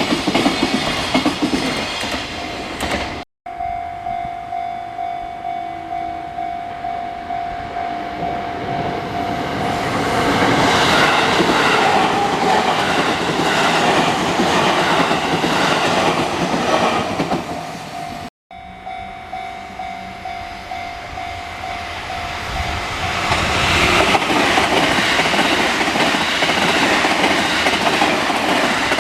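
Railway level-crossing warning bell ringing, about two strikes a second, then trains passing close by with loud rolling wheel clatter over the rails. This happens twice.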